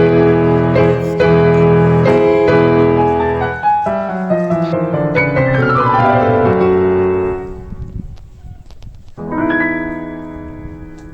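Piano music playing a run of chords that dies away about three quarters of the way through, followed after a short pause by one new held chord.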